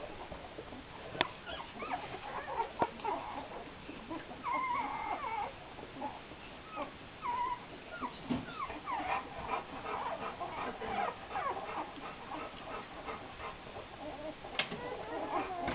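A litter of nine-day-old Greater Swiss Mountain Dog puppies squeaking and whimpering, many short high calls overlapping. There is a sharp click about a second in and another near the end.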